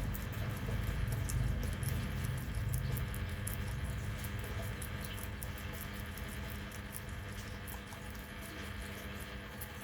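Small animals, mice or rabbits, chewing food: many quick, crisp clicks of nibbling, irregular and close together. A steady low hum runs underneath, a little louder in the first few seconds.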